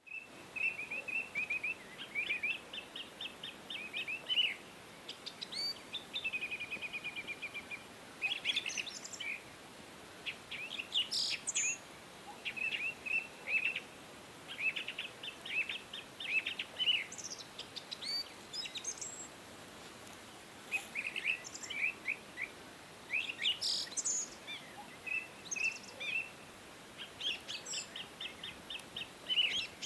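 Small birds chirping and trilling in quick runs of high notes, with short pauses between runs, over a faint steady background hiss.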